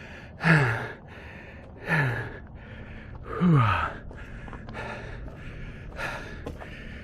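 A man gasping for breath from hard exertion on a steep climb: three loud voiced exhalations, each falling in pitch, in the first few seconds, then quieter breathing.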